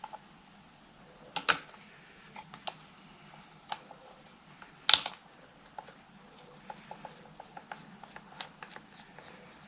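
Scattered clicks and taps of small parts and a hand tool being handled while the handlebar switch housing is taken apart, with two sharper knocks about one and a half and five seconds in and a run of light ticks near the end.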